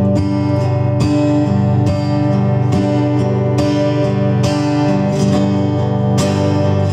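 Instrumental intro of a song: acoustic guitar strumming chords in a steady rhythm, about two strokes a second.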